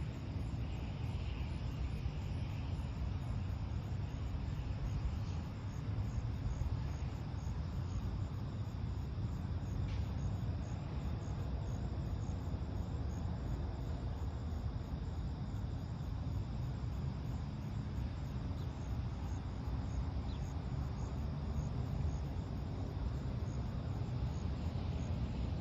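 Steady low outdoor rumble, with faint crickets chirping in a fast, even pulse.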